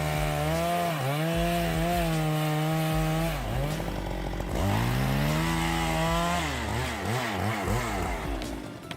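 Chainsaw engine running at high speed while cutting through a large wooden block. About three and a half seconds in its pitch drops and recovers, and near the end it rises and falls quickly several times.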